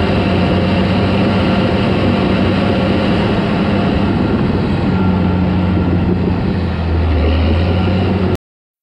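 Caterpillar D4 crawler bulldozer's diesel engine running steadily while it works. The engine note drops a little about seven seconds in, and the sound cuts off abruptly just before the end.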